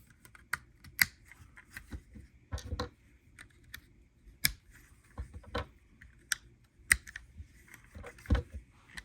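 LEGO plastic pieces clicking and snapping together as wheels are fitted onto a small car build: a string of irregular sharp clicks and taps.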